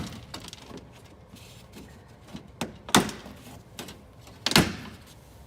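Plastic knocks and clicks of a car's front bumper cover being pushed into place over the lower splash shield: three sharp loud knocks, at the start, about three seconds in and near the end, the last with a brief rattle, and fainter clicks between.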